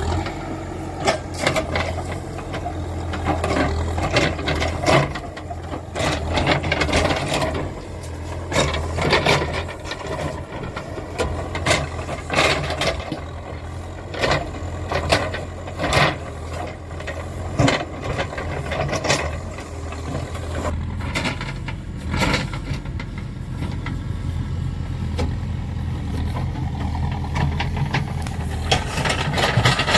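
A backhoe loader's diesel engine runs steadily under the work, with frequent sharp clanks and rattles from the machine.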